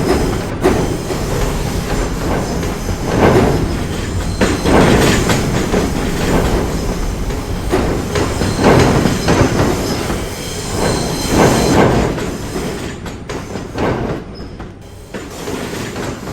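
New York City subway train moving along the track, its wheels clattering over the rail joints in a run of uneven knocks, then fading away over the last few seconds.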